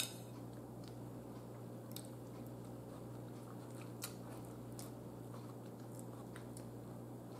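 Quiet eating at close range: faint chewing, with a few light clicks of a metal fork against the bowl, over a steady low hum.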